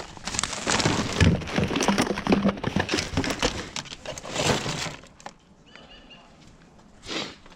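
Rummaging through a bag of thrown-out household rubbish: plastic crinkling and rustling with items knocking and clattering together. The sound is dense for about five seconds, then dies down.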